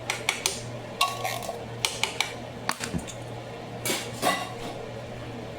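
Dishes and metal utensils clinking and clattering as they are handled, a dozen or so sharp clinks that stop about a second before the end, over a steady low hum.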